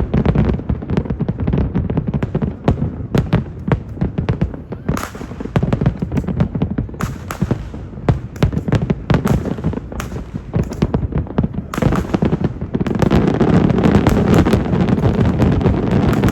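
Aerial fireworks bursting in rapid succession, many overlapping bangs and crackles, growing denser and louder about thirteen seconds in.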